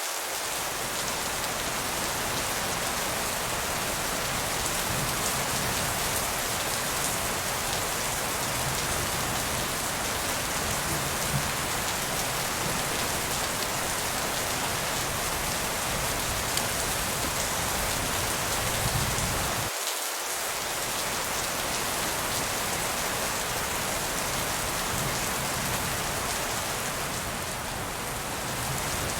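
Steady rain falling, an even hiss of drops with no break in intensity.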